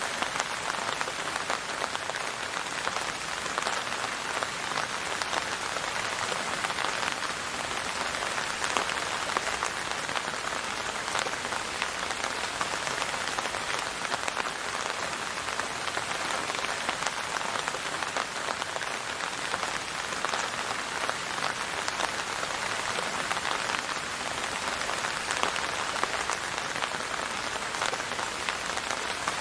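Steady rain falling on a surface, a dense even patter of drops without a break.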